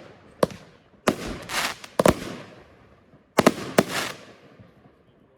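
Consumer fireworks being fired: sharp bangs in quick clusters of two or three, each trailing off in a hiss. They die away near the end.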